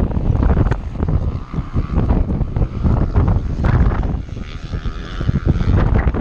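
Off-road enduro motorcycle engine running hard under heavy wind buffeting on the microphone. Its droning note steps up in pitch about halfway through.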